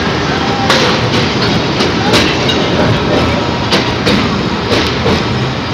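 Narrow-gauge amusement-park train rolling along its track, heard from aboard: a steady rumble with several sharp wheel clacks over rail joints at uneven spacing.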